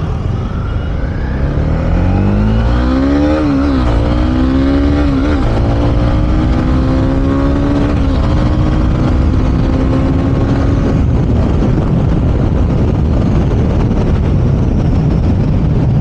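Honda CB300R's single-cylinder engine accelerating hard through the gears, its pitch climbing and dropping sharply at each of three quick upshifts, each gear rising more slowly. After about eleven seconds the engine note fades under heavy wind rush on the microphone.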